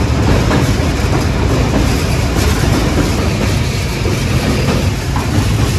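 Passenger train coach running on the rails as it crosses a river bridge: a steady, loud rumble of wheels and running gear, with faint clicks from the rail joints, heard from the open coach doorway.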